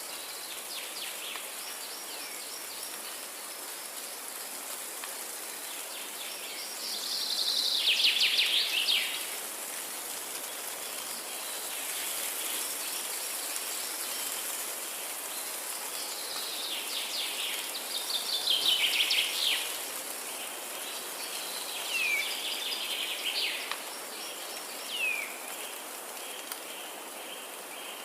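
Forest ambience: songbirds singing over a steady high hiss. Two loud trilled phrases slide downward in pitch, one about a quarter of the way in and one past the middle, and short downward-sweeping chirps follow near the end.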